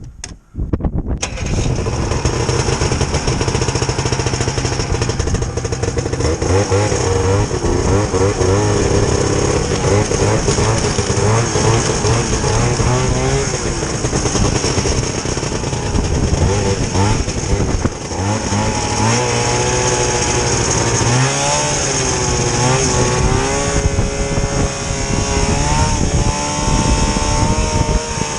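Vintage snowmobile's two-stroke engine running loud, cutting in about a second in, its pitch rising and falling with the throttle.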